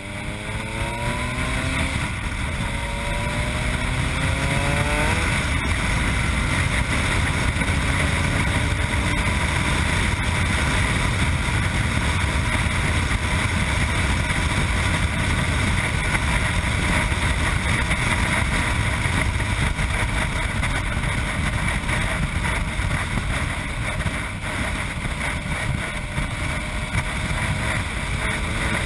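Yamaha MT-09's three-cylinder engine through an Akrapovic exhaust, heard on board, accelerating through two gears in the first five seconds with a shift about two seconds in. It then holds a steady speed under wind noise and begins to rise again near the end.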